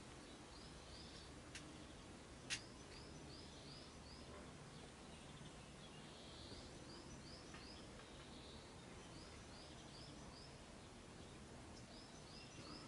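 Faint bird song: short high chirps in runs of three or four, repeating every couple of seconds over a quiet hiss. A single sharp click about two and a half seconds in.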